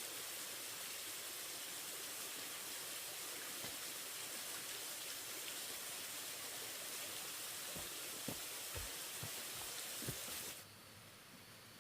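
Steady rain, with a few soft low knocks about eight to ten seconds in; the rain sound cuts off abruptly near the end, leaving only a faint hiss.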